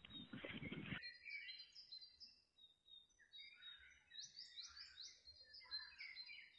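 Faint birdsong: several small birds chirping and trilling in short repeated phrases. A brief rustling noise in the first second cuts off suddenly.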